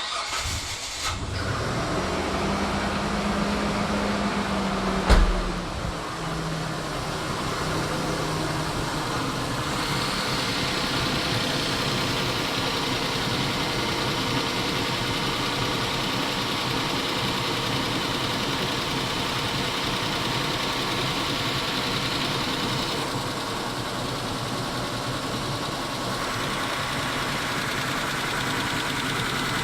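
Mitsubishi 6G72 V6 engine starting and running at a steady idle, with one sharp knock about five seconds in. The engine is under test for hydraulic lifter tapping, which the owner suspects but is not sure of.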